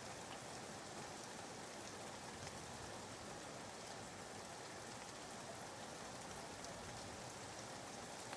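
Recorded rain ambience: a soft, steady hiss of falling rain used as background white noise.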